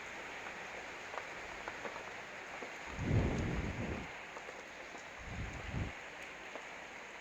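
Oiled coral fish sizzling and crackling on a charcoal grill: a steady hiss with scattered small pops. A low rumble swells about three seconds in, and again briefly a little later.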